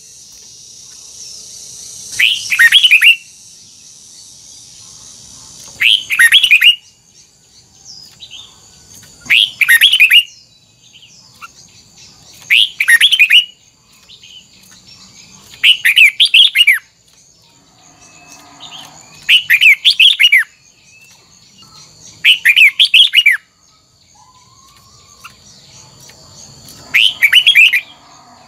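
Red-whiskered bulbul singing a short, loud whistled phrase over and over, one about every three seconds.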